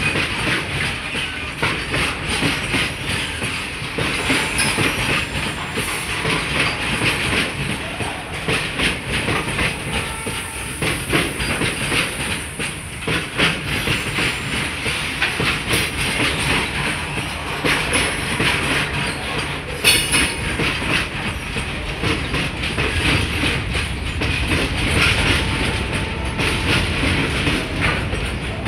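BCNA covered freight wagons rolling slowly past on the track: steady rumble of steel wheels on rail with continuous clicking and rattling of the wagons, a couple of brief faint wheel squeals, and one sharp clank about twenty seconds in.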